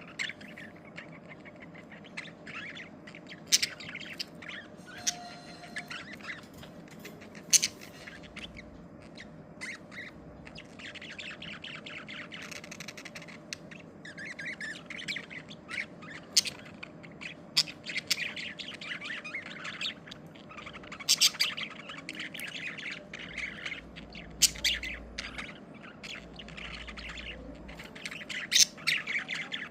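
Budgerigars chirping and chattering: sharp, loud chirps scattered throughout over a softer continuous warble.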